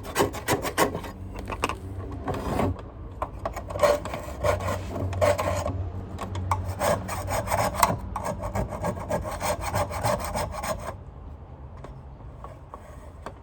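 Rust being scraped off a Sanitaire vacuum's metal parts: a quick run of rasping, rubbing strokes. The scraping stops about eleven seconds in.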